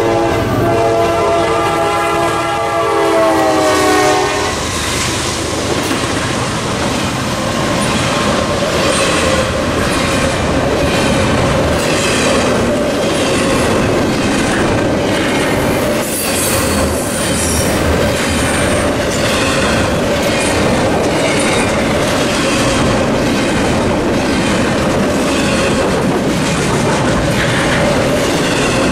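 A freight locomotive's horn, a GE CM44AC leading a CSX intermodal train, blows a chord whose pitch drops as the engine passes, and cuts off about four and a half seconds in. Then the double-stack container well cars roll by with steady rumbling and a rhythmic clickety-clack of wheels over the rail joints.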